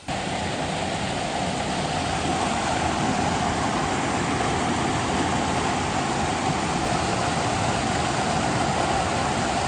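Steady rushing of a waterfall's falling water close by, even and unbroken; it starts abruptly with the clip.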